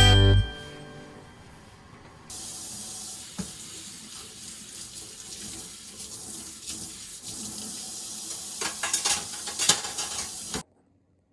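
Water running steadily from a kitchen tap into a sink, turned on about two seconds in, with a few sharp clatters of items being handled near the end before it cuts off suddenly.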